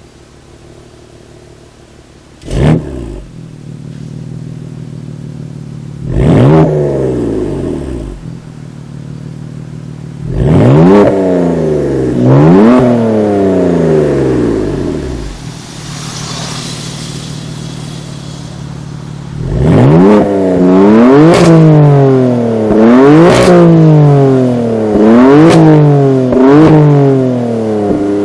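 BMW M4's twin-turbo straight-six, breathing through an Akrapovic Evolution Line exhaust, being revved while standing. After a short sharp bark it settles to an idle. It is blipped a few times, then given a run of quick revs about every second and a half near the end, each rising and falling back to idle.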